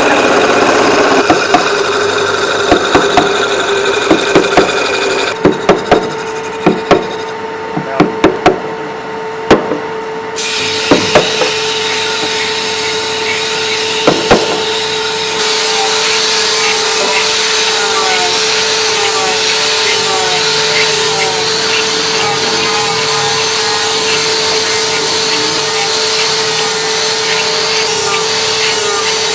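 Instrument-workshop sounds of wood being worked: sawing, rasping and rubbing, with a run of sharp knocks through the first half. A steady tone hums underneath, and the sound changes abruptly in places where clips are cut together.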